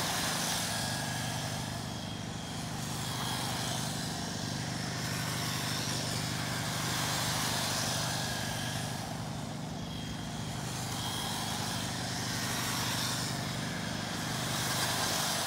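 Electric RC race cars running laps, their high-pitched motor and tyre whine swelling and fading every few seconds as the pack passes by.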